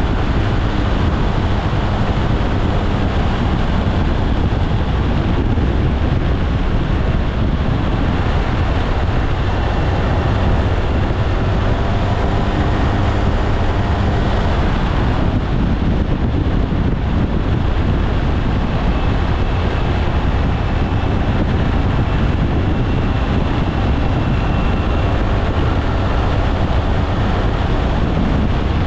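Steady wind rumble on the microphone while riding a SYM Maxsym TL 508 maxi-scooter, with its engine and tyre noise underneath at a constant speed.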